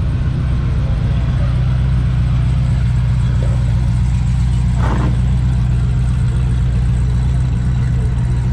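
A car engine idling with a steady low rumble. A brief, higher sound cuts in about five seconds in.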